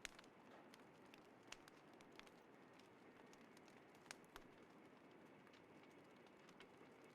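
Small fire crackling softly, with scattered sharp pops and ticks over a faint, even hiss; the sharpest pops come right at the start and about a second and a half and four seconds in.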